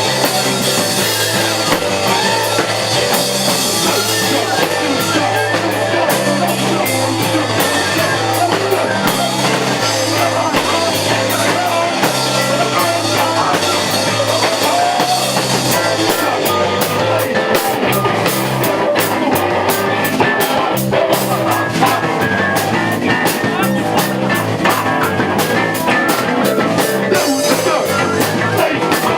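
Live rock band playing loud, with electric guitar, bass and drum kit; the drumming turns to rapid, dense hits about halfway through.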